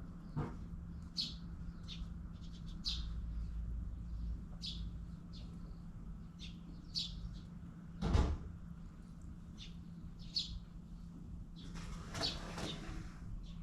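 Small birds chirping in short high calls, one after another. About eight seconds in there is a single knock, and near the end a scraping rustle lasts about a second and a half.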